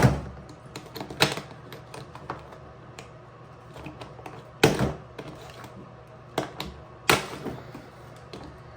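Irregular clicks and knocks of plastic parts being handled while a countertop dishwasher is taken apart. The two loudest come about halfway through and near the end.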